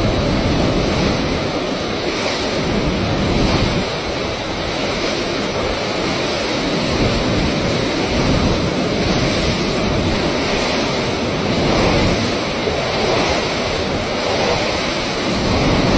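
Water rushing through an open dam flood gate: a loud, steady rush with no letup.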